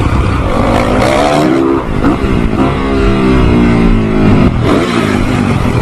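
Motorcycle engine revving hard, its pitch climbing and dropping several times.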